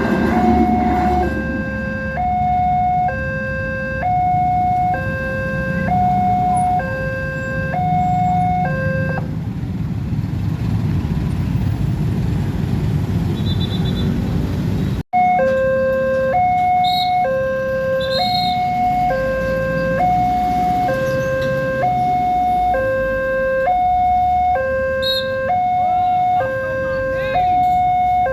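Electronic level-crossing warning alarm sounding a two-tone alternating signal, high and low, each tone about half a second long, which warns that a train is approaching and the barriers are down. It stops about a third of the way in and starts again after a break, over a low rumble.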